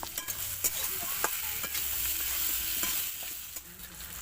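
Potatoes and onions frying in hot oil in a kadai with turmeric and salt, sizzling steadily while being stirred, with irregular clicks and scrapes against the pan.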